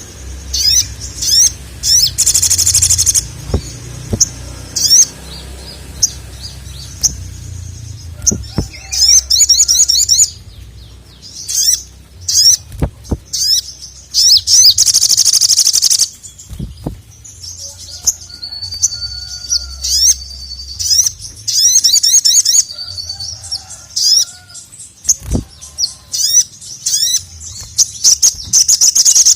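Ruby-cheeked sunbird (sogon) singing in repeated bursts of fast, high-pitched trills and chirps, with one held whistled note about two-thirds through. A few sharp knocks are heard among the song.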